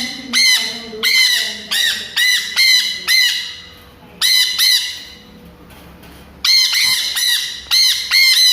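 Sun conure screeching: loud, shrill arching calls repeated about three a second, in three runs with short pauses between them.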